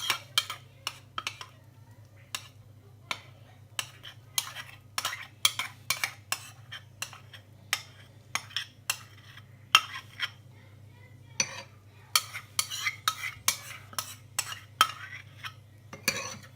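A spoon scraping and tapping against a bowl and a mug as chocolate mug-cake batter is spooned in: many short, irregular clinks and scrapes. A faint, steady low hum runs underneath.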